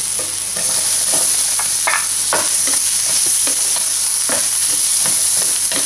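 Minced garlic and chopped onion sizzling as they sauté in hot oil in a stainless steel pan. A spoon scrapes and taps against the pan every second or so as it is stirred.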